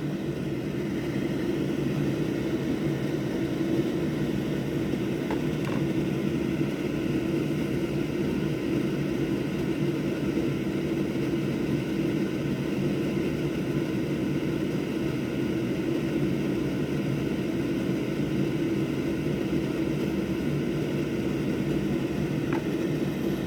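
Steady whir of an electric fan or blower at a soldering and rework bench, running evenly throughout, with a couple of faint ticks.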